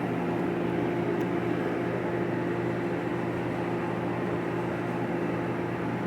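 A machine running steadily: a low hum with an even airy hiss.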